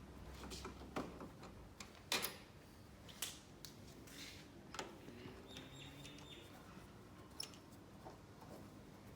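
Scattered light clicks and knocks of hand work on a caravan body, tools and fittings being handled, the sharpest about two seconds in.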